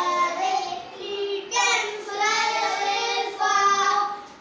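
Young children reciting a rhyme together in a sing-song chant, with several words drawn out into held notes.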